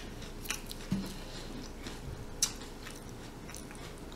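Close-up chewing of a mouthful of shrimp with the mouth closed: soft wet clicks and smacks at irregular intervals, and a short low hum about a second in.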